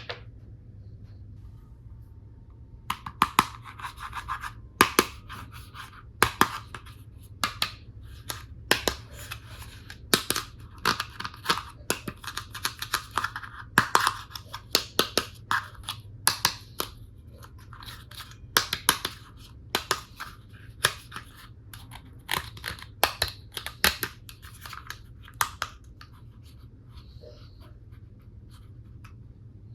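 Hands handling plastic toy tool pieces and their packaging: a long run of sharp plastic clicks and taps with rustling, scraping stretches. It starts a few seconds in and dies away a few seconds before the end.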